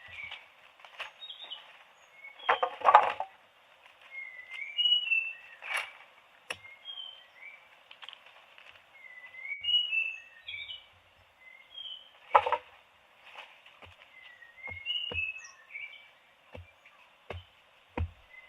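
Small birds chirping: many short, high chirps that slide up or down. A few sharp knocks break in among them, the loudest about three seconds in and again about twelve seconds in.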